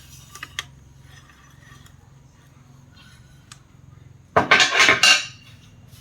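A few faint clicks, then a loud burst of clattering and clinking lasting about a second, a little after four seconds in.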